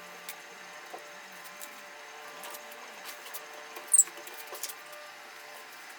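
Faint handling noises: a few light ticks and one brief sharp high squeak about four seconds in, over a faint steady hum.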